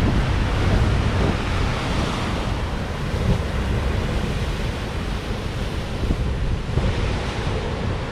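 Heavy surf from typhoon-driven high waves crashing and washing on the shore, a steady low rumble with the hiss of the wash swelling about two seconds in and again near seven seconds. Wind buffets the microphone.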